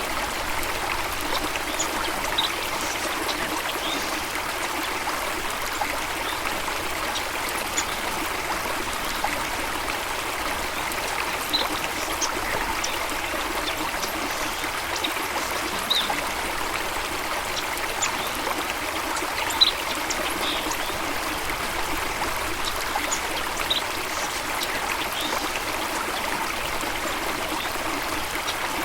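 Running water, a steady even rush of a stream, with scattered brief high-pitched chirps over it.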